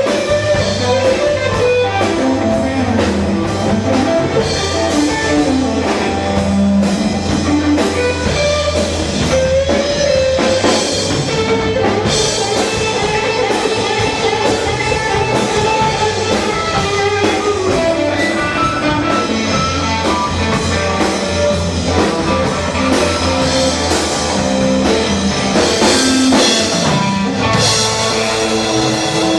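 Rock band playing live: a guitar melody over a steady drum kit beat, with no singing. The music changes to a new section near the end.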